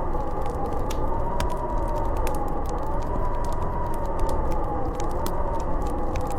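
Howling snowstorm wind, a steady rush with a whistling tone that wavers slowly up and down, over the irregular crackle of a wood fire in a fireplace.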